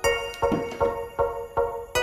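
Background music: repeated synthesizer or keyboard notes on a steady beat, about two and a half notes a second.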